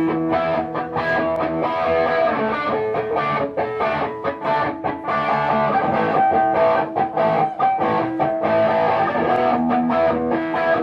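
Live rock band playing the instrumental intro of a song, with strummed electric guitar out front.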